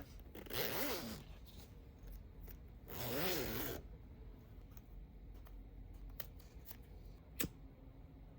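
A zipper pulled along twice, each pull lasting under a second, then a single sharp click near the end.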